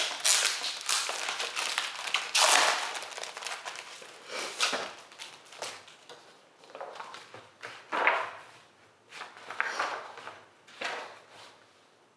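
Packaging rustling and crinkling as the parts of a new cordless vacuum are unwrapped and handled. It comes in irregular bursts, the loudest near the start and about two and a half seconds in, growing fainter toward the end.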